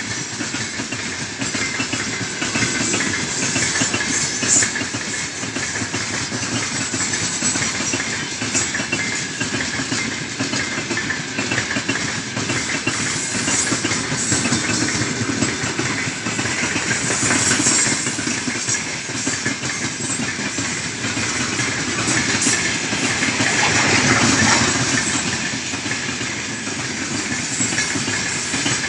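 Freight train of open gondola wagons rolling past, the steel wheels rumbling and clattering steadily on the rails.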